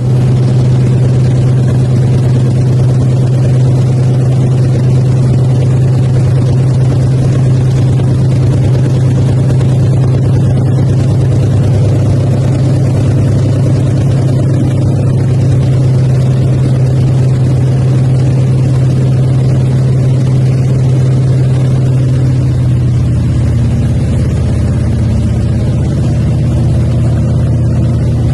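Antonov An-2's nine-cylinder radial engine droning steadily, heard from inside the cabin. About three-quarters of the way through, the drone's pitch drops a little and it gets slightly quieter.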